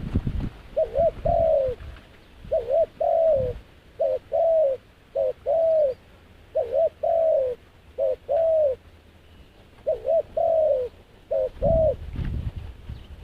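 Dove cooing over and over, each phrase a short note followed by a longer downward-sliding coo, about one phrase every second and a half. Low thuds at the start and again near the end.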